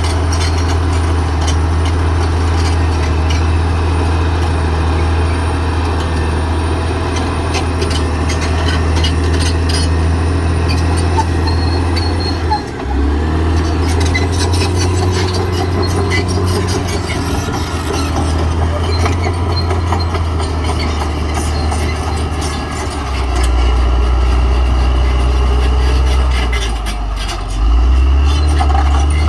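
Caterpillar D6R XL bulldozer working: its diesel engine runs steadily under load, with rapid clicking and rattling over it. The engine note dips briefly about 13 seconds in, drops to a lower pitch for a few seconds near the end, then comes back up.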